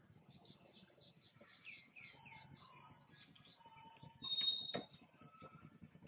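A bird singing close by: loud, high-pitched clear whistled notes in three short phrases, starting about two seconds in with a falling note.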